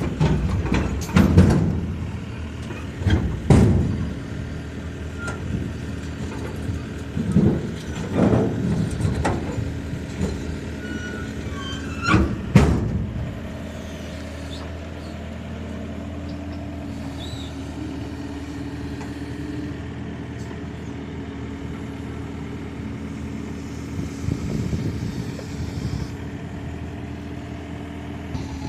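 A 5.5-tonne mini excavator's engine running under a series of loud knocks and clanks as it climbs onto a trailer. About halfway through the banging stops and the engine settles to a steady hum.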